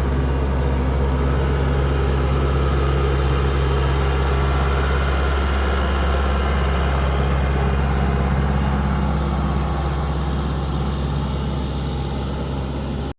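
Kubota tractor's diesel engine running steadily, getting a little quieter over the last few seconds.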